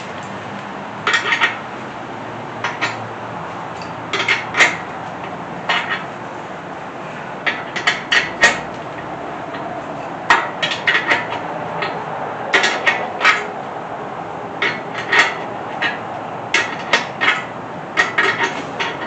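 Wrench and steel parts clinking and knocking against metal in short, irregular clusters of sharp clicks, as bolts are worked loose.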